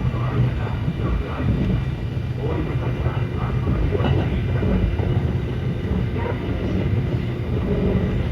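Kintetsu 9200 series electric train running at speed, heard from inside the car: a steady low rumble of wheels on rail with scattered small knocks.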